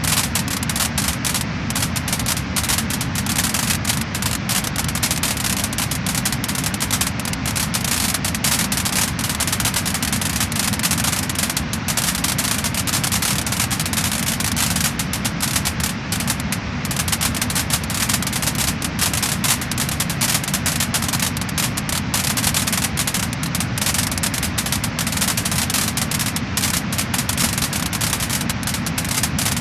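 Wood-burning fire crackling and popping: a dense, steady stream of small snaps over a low rushing hiss.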